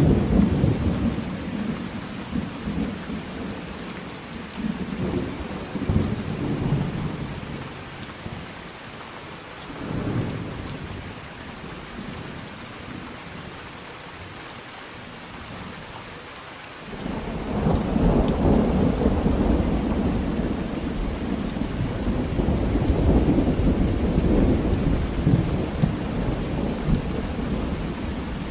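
Steady rain falling with rolling thunder: low rumbles swell and fade in the first half, and a long, louder roll of thunder begins suddenly about two-thirds of the way in.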